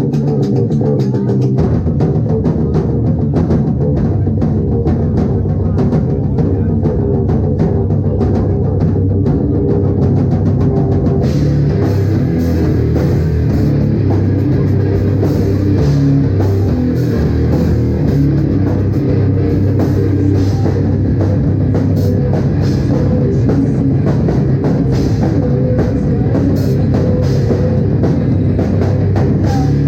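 Live rock band playing loud: electric guitar, bass guitar and drum kit. The sound becomes brighter about eleven seconds in.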